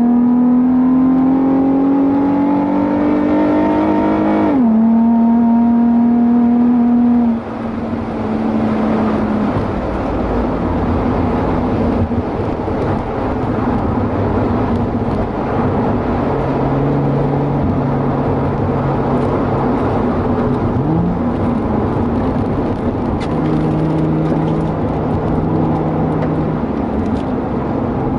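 Nissan 350Z's 3.5-litre V6 through an aftermarket catback exhaust, heard from inside the cabin at full throttle on track. It rises in pitch through a gear, drops sharply on an upshift about four and a half seconds in, then goes off throttle about seven seconds in. After that a lower engine note comes and goes under steady road and tyre noise.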